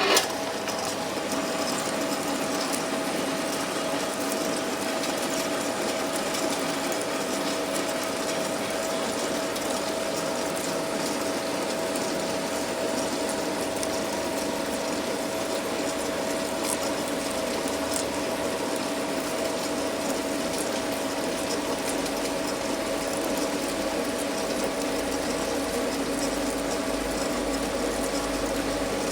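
Metal lathe running steadily, with a constant whine from its gearing over a steady mechanical hum.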